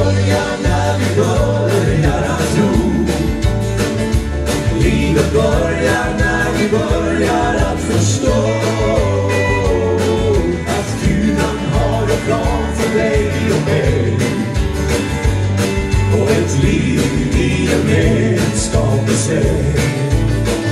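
A band playing the introduction of a country-style gospel song, with a steady drum beat and a strong bass line.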